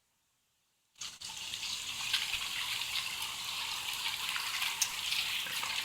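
About a second of dead silence, then steady rain falling, an even hiss with scattered faint drip ticks.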